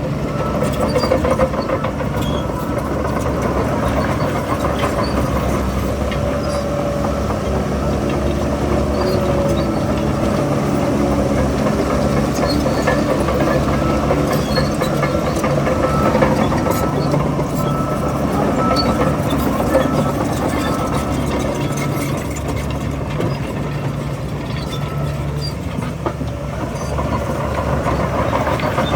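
Bulldozer's diesel engine running steadily under the continuous clatter of its steel crawler tracks.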